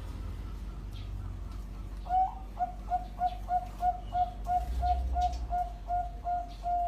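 Bangkok-type perkutut (zebra dove) cooing: starting about two seconds in, a string of about fourteen short, evenly paced notes at about three a second, ending on a longer drawn-out note.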